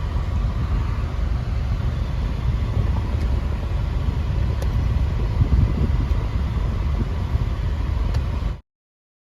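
A car driving, with a steady low rumble of road and engine noise that cuts off suddenly near the end.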